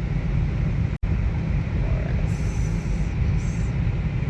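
Car road noise heard from inside the cabin while driving: a steady low rumble with tyre hiss, broken by a split-second dropout about a second in.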